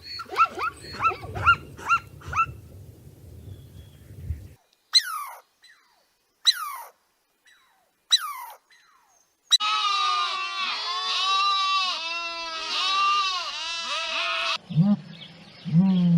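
A run of different animal calls cut one after another: a quick series of short calls over a low rumble, then three high calls that fall sharply in pitch, then several seconds of dense overlapping calls from a group of animals, and low calls near the end.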